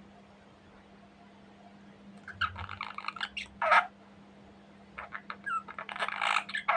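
Pet budgerigar chirping and chattering in quick bursts, first about two seconds in and again from about five seconds in, over a faint steady low hum.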